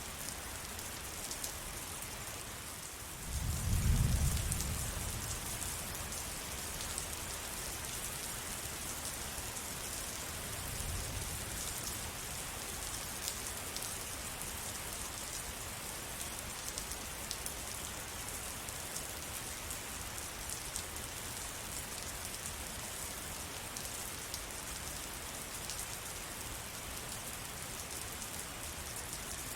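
Steady rain falling, a dense hiss of many small drop ticks. About three seconds in a brief low rumble swells up and fades, the loudest thing heard, and a fainter low rumble follows around ten seconds in.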